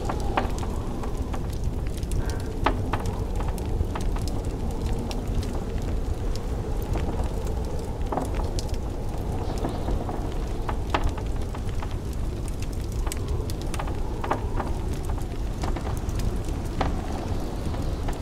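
Blizzard wind with a steady low rumble, and a wood fire crackling over it with irregular sharp pops every second or so.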